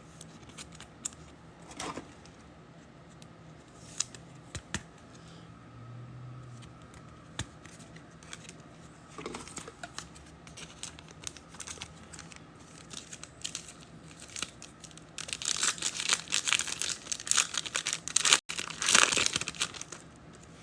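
Faint scattered handling clicks, then about fifteen seconds in a loud burst of crinkling and tearing lasting several seconds: the wrapper of a trading-card pack being torn open.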